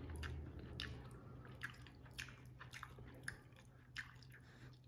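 Faint chewing of a mouthful of shrimp, sausage and rice, with a few soft clicks scattered through.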